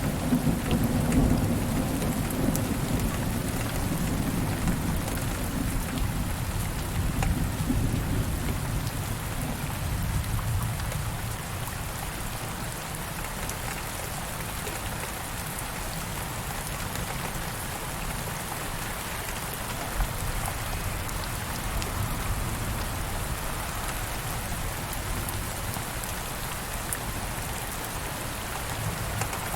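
Steady rain falling, with a low rumble of thunder in the first several seconds that fades away.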